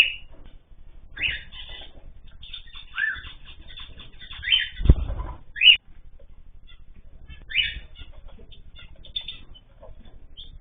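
Ornamental birds chirping: short calls every second or two, with a loud thump about five seconds in.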